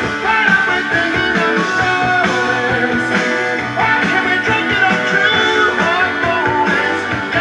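Rock music playing from a vinyl record on a Pioneer PL-630 direct-drive turntable.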